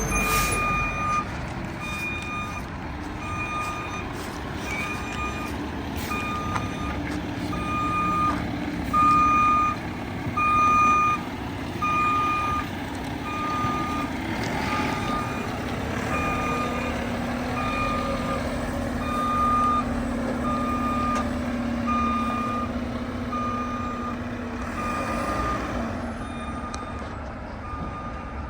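Front-loader garbage truck backing up, its reversing alarm beeping about once a second over the steady running of its diesel engine. A steady low hum joins in about halfway through.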